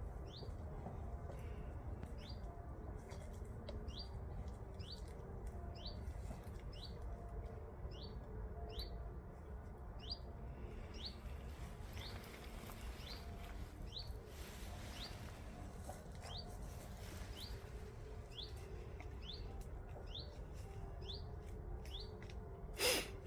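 A bird calling a short rising chirp over and over, about two a second, with a pause partway through, over a low rumble of wind. A brief loud bump near the end.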